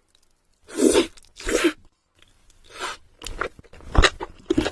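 A person biting and chewing crunchy food. There are three separate crunches in the first three seconds, then a denser run of sharp crackling bites.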